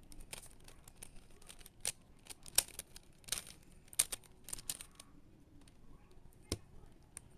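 Plastic twisty-puzzle cube being turned by hand: irregular clacking clicks in quick runs for the first few seconds, then a pause and one sharp click.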